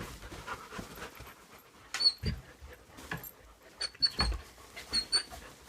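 A puppy moving about, making a few soft thumps and scrapes. The loudest thumps come about two and four seconds in.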